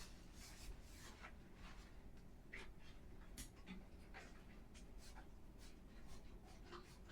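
Faint, irregular scratching and rubbing strokes of surfaces being scrubbed during bathroom cleaning.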